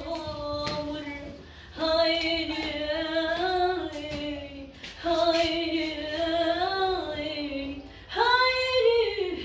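A woman singing solo in long, held, ornamented phrases, with short breaths between them.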